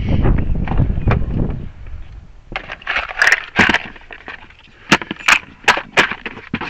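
Locksmith's tools and small cases being handled and packed away: a low rustling rumble of handling, then a run of sharp clicks and clacks of hard plastic and metal.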